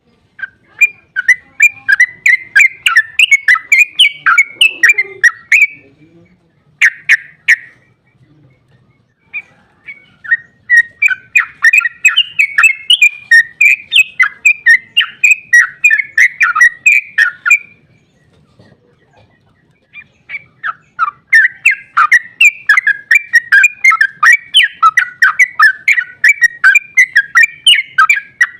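Yellow-vented bulbul (trucukan) singing its long, rapid 'ropel' song: three extended runs of fast chattering notes, separated by short pauses.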